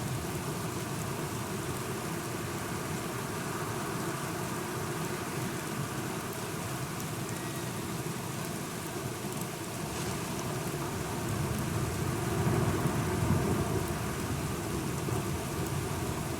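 Steady rain falling, with a low rumble of thunder that swells up about two thirds of the way through.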